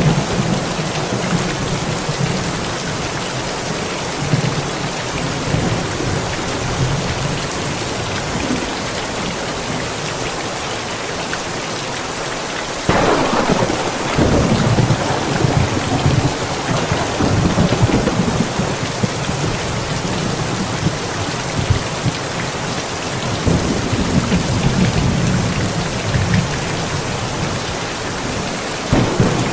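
Steady rain falling with thunder: a sudden clap about halfway through rolls on as a low rumble for several seconds, and more rumbles follow near the end.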